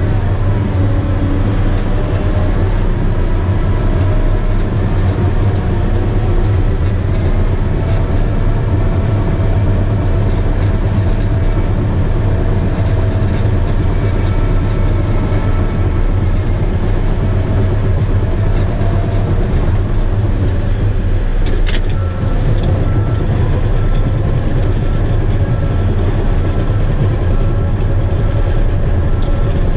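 Bulldozer engine running under load with its steel tracks clanking and squealing. A sharp knock comes about two-thirds through, and right after it a steady series of short beeps starts, the dozer's reverse alarm as it backs up.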